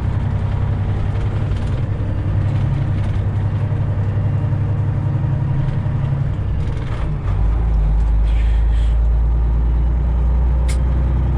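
Semi truck's diesel engine running under way, heard from inside the cab as a steady low drone. About seven seconds in, the engine note drops deeper and gets a little louder.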